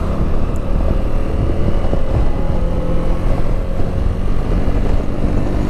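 Wind buffeting over the rider's helmet at road speed, with the steady engine note of a Keeyway Superlight 125 motorcycle underneath.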